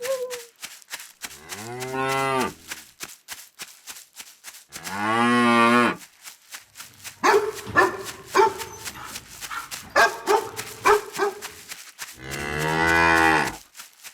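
Cattle mooing: three long, arching moos, with a run of shorter calls between the second and third.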